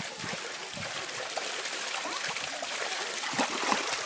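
Splashing and trickling water, a steady wash with a few sharper splashes near the end.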